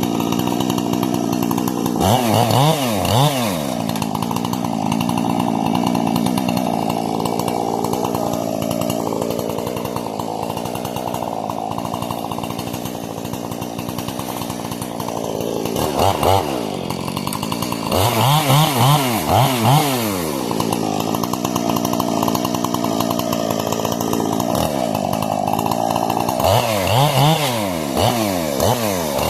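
Husqvarna 460 two-stroke chainsaw, with a modified carburetor and muffler, running steadily. It is blipped up to high revs and back down in quick bursts several times: near the start, in the middle and toward the end.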